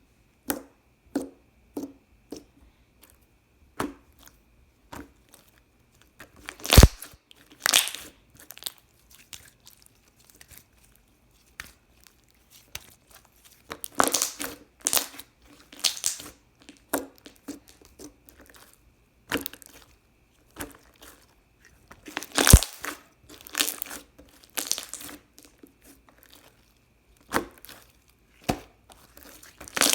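Clear slime being squished, stretched and pressed by hand, giving irregular crackles and pops as trapped air is squeezed out. Two pops stand out as the loudest, about a quarter of the way in and about three quarters of the way in.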